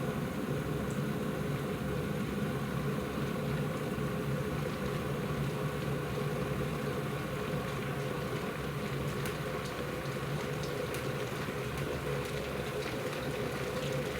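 IRIT IR 1360 electric kettle heating water near the boil: a steady rumbling hiss, with faint ticks appearing in the second half.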